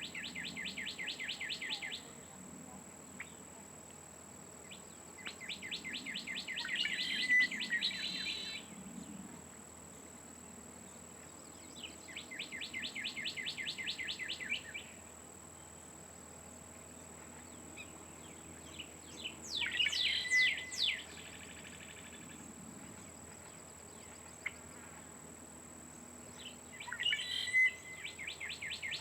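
A songbird repeating a rapid trill of evenly spaced notes. Each phrase lasts two to three seconds and comes back about every six to seven seconds, five times in all. A faint, steady, high-pitched tone runs beneath it.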